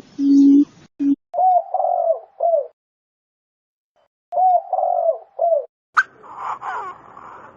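Button quail calling: two phrases of three or four short, arched cooing notes a couple of seconds apart, then a sharp click and a burst of scratchy chatter near the end. In the first second there are two steady, flat tone pulses that sound electronic.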